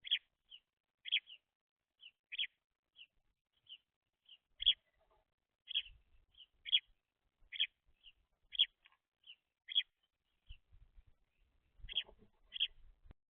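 Young house sparrows chirping: short, high chirps, a louder one roughly every second with fainter ones in between, and a few soft low bumps near the middle and toward the end.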